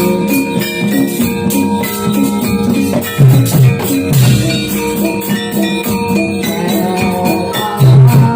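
Live gamelan music accompanying a jathilan horse dance: held ringing metallophone notes over a quick, even jangling percussion rhythm, with heavy hand-drum strokes a few seconds in and again near the end.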